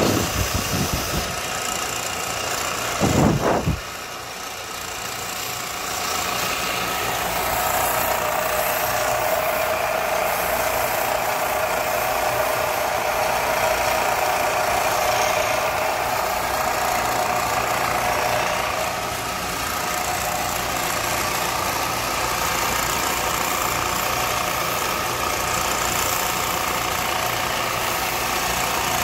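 Power grinder motor running steadily, with a stronger grinding tone coming in about six seconds in and easing off around nineteen seconds. A brief loud rumble sounds about three seconds in.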